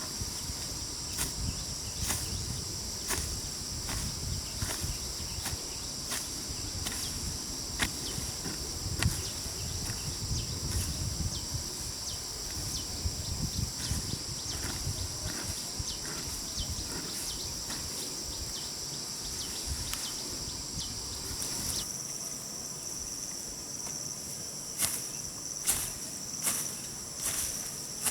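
Insects chirring steadily in a high, even band, with scattered short knocks and clicks throughout. A low rumble underneath drops away about three quarters of the way through.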